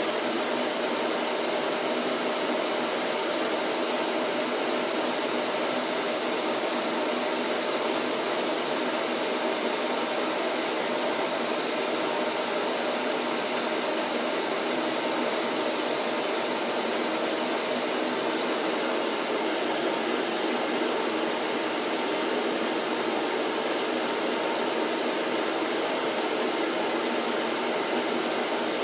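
Vacuum cleaner running steadily: an even, unchanging rush of motor and airflow noise with a faint steady hum.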